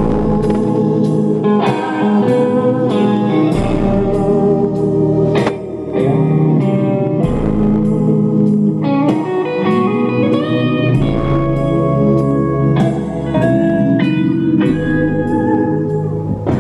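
A blues song with slide guitar played loud through a truck's stereo, its bass notes carried by four Digital Designs 1006 6.5-inch subwoofers on a DD M1D amplifier wired at 0.5 ohm; the deep bass notes come and go every second or two.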